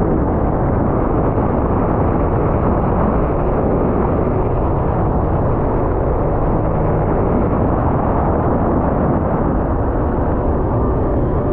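Sea-Doo personal watercraft running at speed: a loud, steady rush of wind and water over the microphone with the engine underneath.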